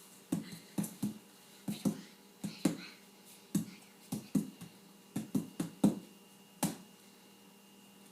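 A series of about a dozen short knocks and taps at an uneven pace, stopping about two-thirds of the way through.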